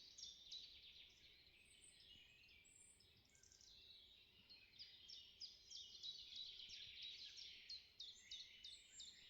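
Songbirds singing in a dawn chorus: fast series of high, downward-sliding notes repeated several times a second. The song thins out a few seconds in, then builds into another dense bout.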